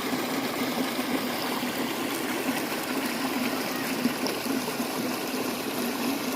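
Stream water running, a steady rushing noise.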